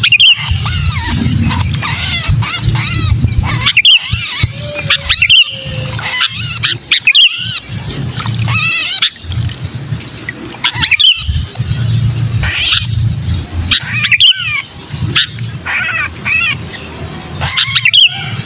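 Sooty-headed bulbuls giving rapid, harsh calls in quick series with sweeping notes: the 'kejepit' distress call of a bulbul caught or pinched, the sound trappers use as a lure. A steady low hum runs beneath.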